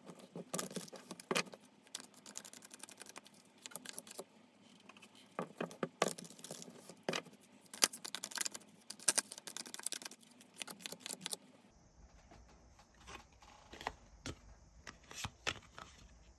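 Tarot cards being handled on a table: irregular sharp clicks and taps, some in quick clusters. About twelve seconds in, the background changes and a low hum comes in under the taps.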